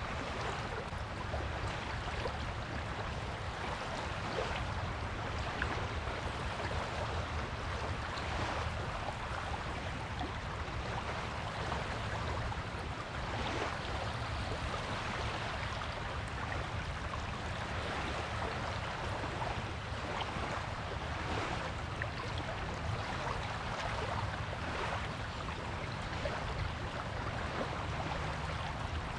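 Waves washing onto a beach: a steady surf hiss with a low rumble beneath, swelling slightly now and then.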